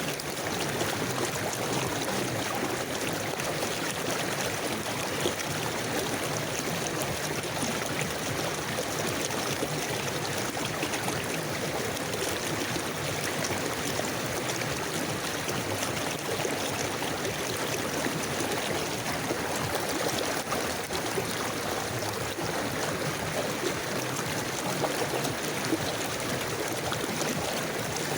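Steady rush of a river flowing, with a fine trickling and gurgling texture and no change throughout.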